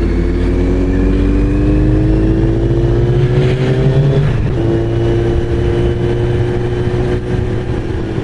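Kawasaki Z900RS inline-four engine through a titanium full exhaust, pulling with a slowly rising pitch under acceleration. About four seconds in the pitch drops as it changes up a gear, then holds steady as the bike cruises.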